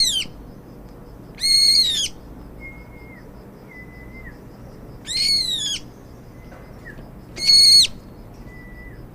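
A bird calling: three loud, high, piercing calls about half a second long, each dropping in pitch at the end, repeated every two to three seconds, with softer, lower, flat whistled notes in between.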